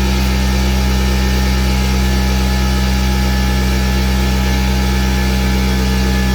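A motor or engine running steadily with a loud, even low hum that does not change.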